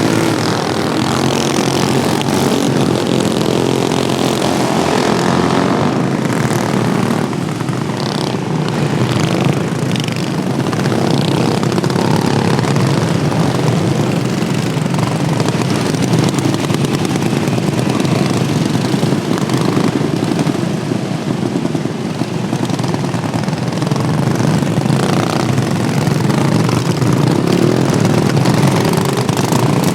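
Several modified Wheel Horse racing lawnmowers running hard around a track, their small engines buzzing over one another. Near the start the pitch drops as one passes by.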